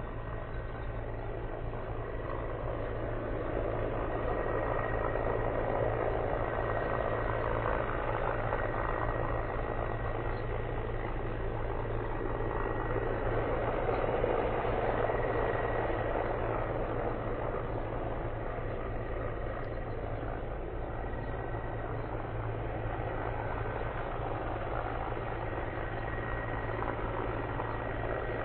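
Mil Mi-35M twin-turboshaft helicopter running steadily: a low engine and rotor drone with a thin high turbine whine, swelling a little in level around five and fourteen seconds in.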